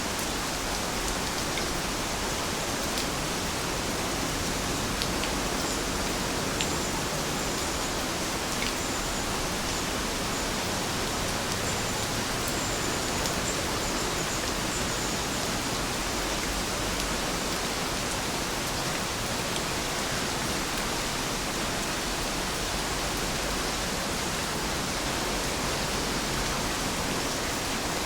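Steady rain falling, an even hiss without let-up, with a few faint drip clicks. Faint short high chirps come and go in the middle.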